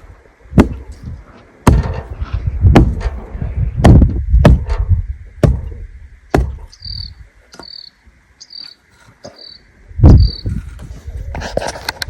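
A series of dull thuds, roughly one a second, fitting earth-filled hyperadobe bags being tamped down in a wall. About halfway through, five short high chirps repeat at an even pace.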